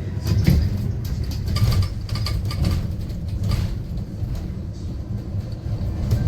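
Cabin of a Yutong U12 electric city bus under way: a steady low rumble of tyres and road, with scattered rattles and knocks from the body and interior fittings.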